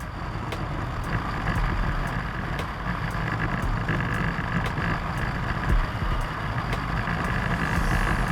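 A motor vehicle's engine running steadily, a low rumble with a noisy hiss above it.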